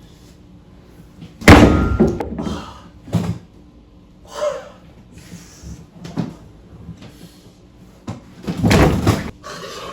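A series of heavy thumps and bangs, the loudest about a second and a half in and another near the end, with smaller knocks between.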